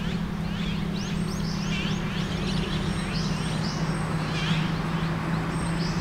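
Small birds giving repeated short, high, falling chirps, a few each second, over a steady low drone of road traffic.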